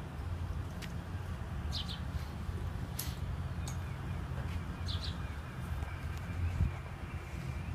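A small bird chirping twice in quick double notes over a steady low rumble, with a few faint clicks.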